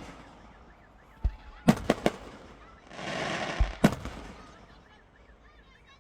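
Fireworks going off: a low boom about a second in, a quick run of three sharp cracks, a hissing burst around three seconds, then another boom and a sharp crack.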